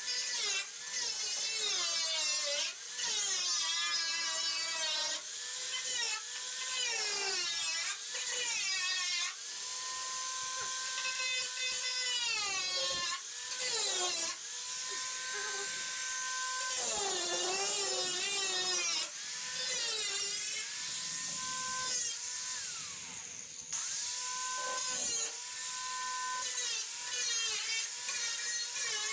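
Electric power tool working on the bus's sheet-metal front panel, its motor pitch sagging and recovering again and again as it bites into the metal.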